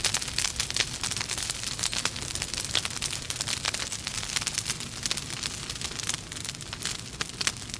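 Wood fire burning in a fireplace: logs crackling and popping with many irregular sharp snaps over a steady hiss.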